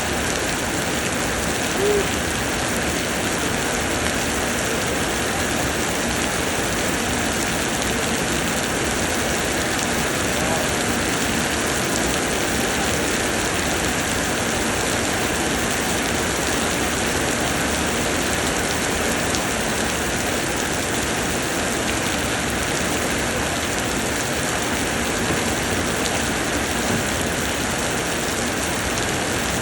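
Steady summer rain pouring down, an even hiss with no let-up. One brief tone stands out about two seconds in.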